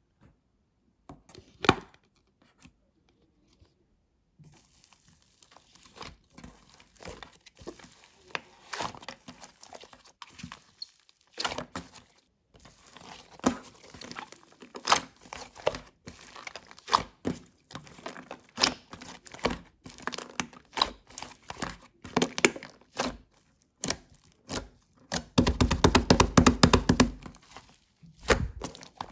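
Slime being squeezed, stretched and poked by hand, giving irregular crackling clicks and small pops. Near the end there is a louder, very fast run of pops lasting about two seconds.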